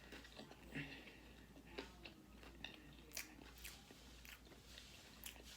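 Faint biting and chewing of crispy fried chicken: scattered short crunches and mouth sounds.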